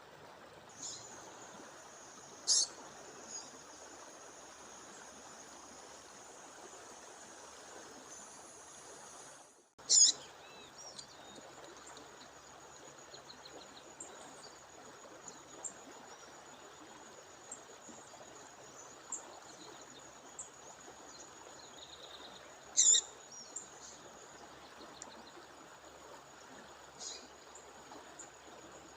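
A female songbird giving sharp, high chirping calls now and then over the steady rush of a waterfall, with a thin, unbroken high whine behind.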